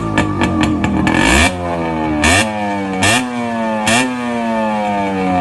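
1985 Yamaha RX100's two-stroke single running with its exhaust muffler removed: it putters unevenly at low revs, then is blipped four times in quick succession. Each blip jumps up in pitch and falls slowly back as the revs drop.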